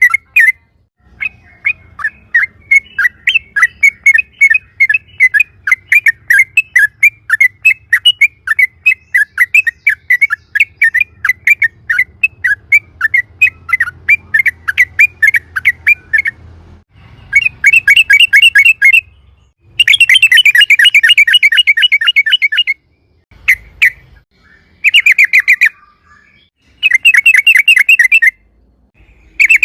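Yellow-vented bulbul (trucukan) calling in a fast 'ropel' chatter of sharp, repeated notes. A long steady run of about five notes a second gives way, about halfway through, to several short, faster bursts with pauses between them.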